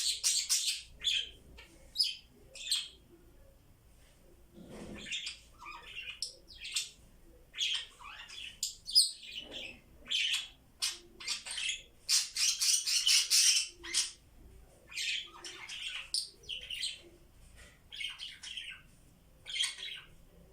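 Pet budgies chirping and chattering in a run of short, high calls, with a busier burst of chatter just past the middle.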